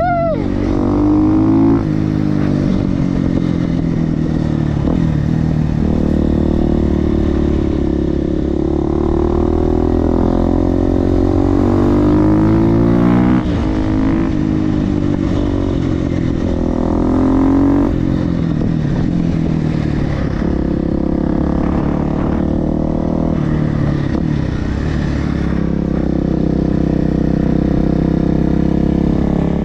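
Supermoto motorcycle with an FMF exhaust running hard, its engine pitch climbing and falling repeatedly with throttle and gear changes. The pitch drops sharply twice midway.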